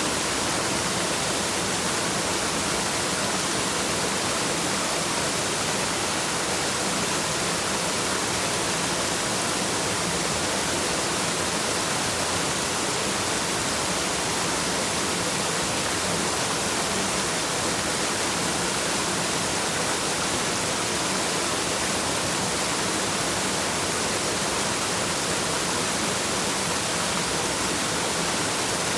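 Waterfall rushing in a steady, unchanging stream of sound, more hiss than rumble.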